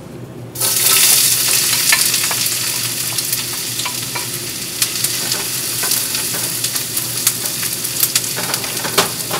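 Chopped onions dropped into hot oil in a stainless steel pan, sizzling loudly from about half a second in, with frequent clicks of a wooden spoon as they are scraped in and stirred.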